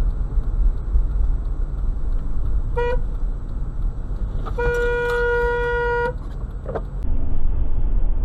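Car horn honked twice, a short beep and then a longer blast of about a second and a half, each on one steady pitch, over a steady road rumble from a moving vehicle.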